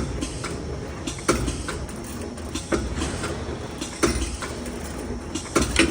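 CNC 3D wire bending machine running through a bending cycle: a steady low rumble broken by sharp metallic clacks about every second and a half.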